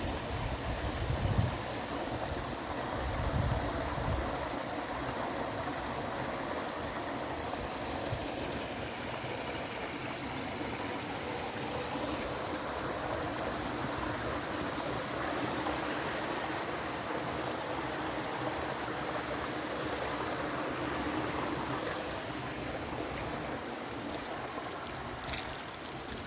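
Steady rushing water, an even noise without pitch, with two low rumbles in the first few seconds.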